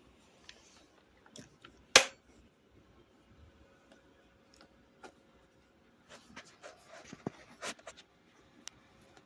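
Scattered clicks and light knocks from handling chainsaw parts and tools during servicing. One sharp knock comes about two seconds in, and a cluster of small clicks and taps follows after six seconds.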